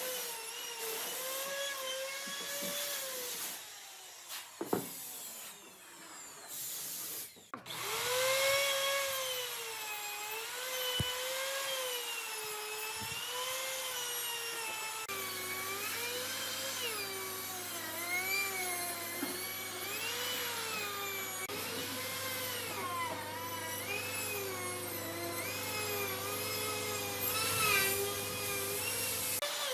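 A handheld power tool's motor running on wood, its pitch wavering up and down. It stops for a few seconds about four seconds in, then starts again, and a steady low hum joins it about halfway through.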